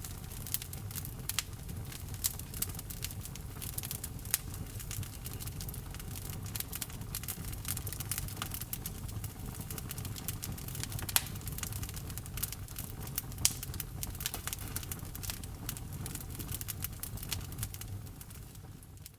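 Burning wood in a fireplace crackling, with frequent irregular sharp pops over a steady low rumble of the flames. It fades out near the end.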